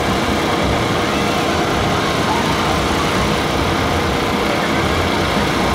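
Loaded coal train of steel hopper cars rolling past: the steady noise of its wheels running over the rails.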